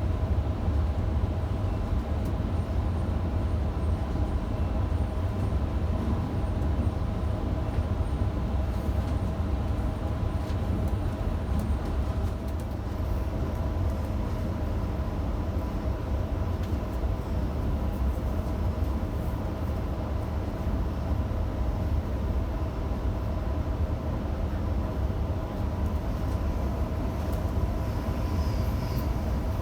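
Electric passenger train running steadily between stations: a constant low rumble with a steady whine of several tones over it.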